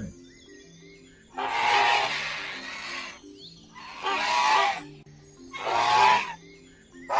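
Three harsh, screeching creature calls, the first the longest, given as a cartoon Oviraptor's call, over a simple background melody.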